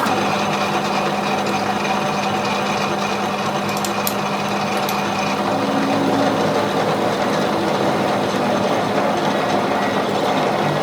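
A machine running steadily, a loud dense mechanical whirr with a few steady tones in it, starting abruptly.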